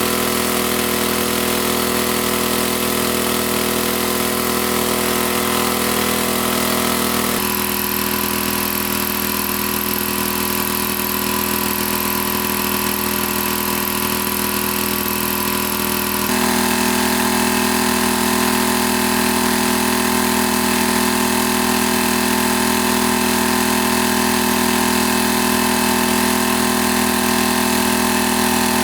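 A small engine running steadily with a constant hum. Its tone shifts abruptly twice, about a third and about halfway in.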